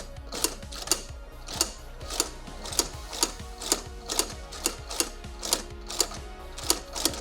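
Sharp mechanical clicks repeating evenly, about two a second, over background music.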